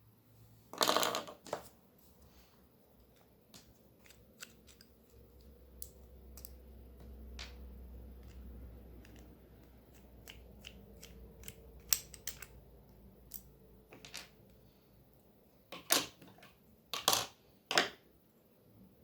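Scattered clicks and light knocks of the plastic housing and parts of a broken Moser hair clipper being handled while it is repaired, with a louder clatter about a second in and three more near the end.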